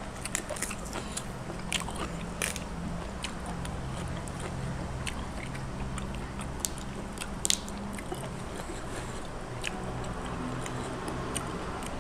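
Close-up chewing and biting on fresh bok choy leaves, with many short crisp mouth clicks and crunches scattered through it, over a steady low hum.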